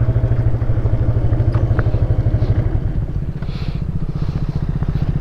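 KTM 390 Adventure motorcycle's single-cylinder engine idling at a standstill, with a rapid, even pulse.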